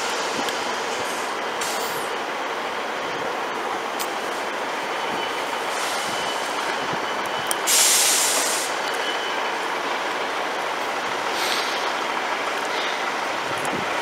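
Steady running noise of a diesel multiple unit standing at a station platform, with a sudden burst of air hiss about eight seconds in that fades away over a second.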